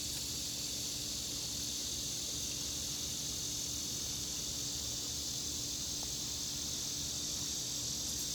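Steady, high-pitched insect chorus, like crickets, with a steady low hum underneath.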